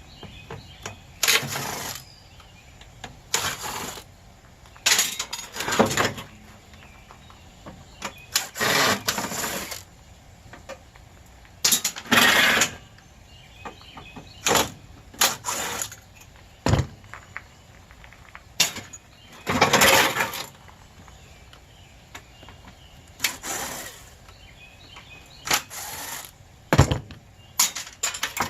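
Metal clanking, scraping and tearing as an air conditioner is pulled apart for scrap: irregular loud bursts every second or two, some sharp knocks and some longer rasping scrapes.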